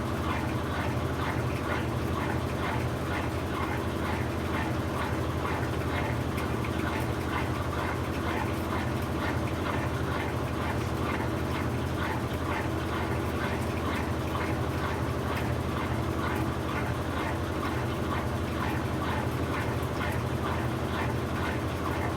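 Brastemp BWK17 17 kg washing machine running steadily near the end of its quick cycle: a constant low motor hum with a fast, even rustle of water and drum above it.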